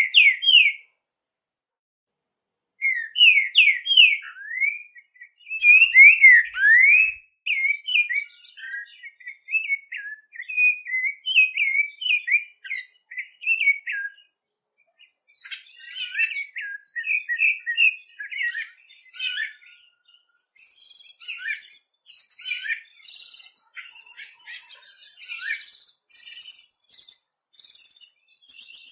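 A songbird singing a long, varied song of quick whistled notes and slurs, broken by a short pause near the start. In the second half, high rapid buzzy trills join in.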